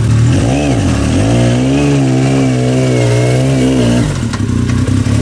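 Yamaha YXZ1000R side-by-side's three-cylinder engine revving under throttle, its pitch dipping and rising and then wavering, until it drops away about four seconds in. Another side-by-side's engine idles steadily underneath.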